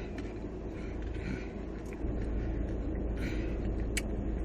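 Steady low rumble of vehicle noise, with a sharp click about four seconds in.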